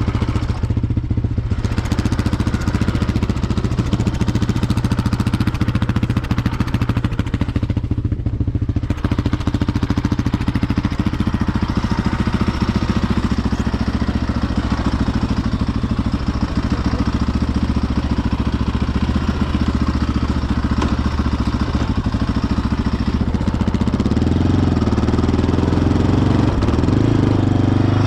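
Yamaha Raptor ATV's single-cylinder four-stroke engine running at a steady low speed. From about 23 seconds in it is revved up and down, louder, as the quad is worked to get it out of deep loose snow.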